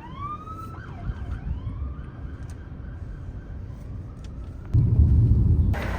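Emergency vehicle siren sweeping up and down in pitch over low street-traffic rumble, fading after a few seconds. Near the end a loud low rumble takes over.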